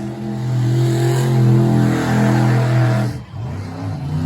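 Monster truck engine running loud at a steady high pitch for about three seconds, then cutting off sharply before revving up again near the end.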